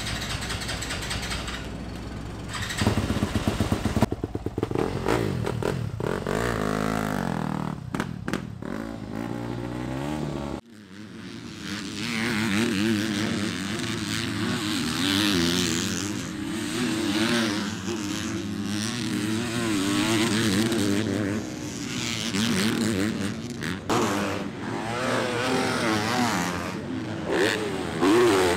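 Motocross dirt bike engines revving and running, the pitch rising and falling with the throttle. About a third of the way in the sound cuts abruptly to several bikes at once, their engine notes wavering up and down as they ride.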